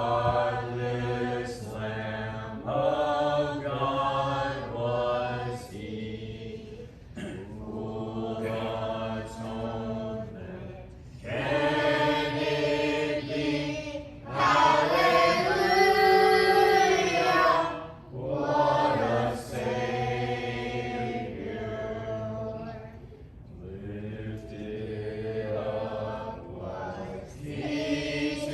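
Congregation singing a hymn unaccompanied, many voices together with no instruments, swelling to its loudest on a long held phrase about halfway through.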